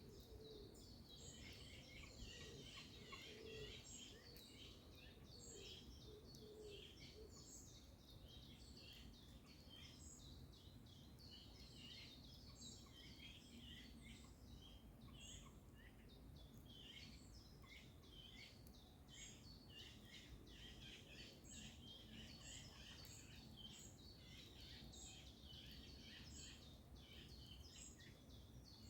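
Faint dawn chorus of songbirds: many short, high chirps and song phrases overlapping, with a few brief lulls, over a soft low rumble of background noise.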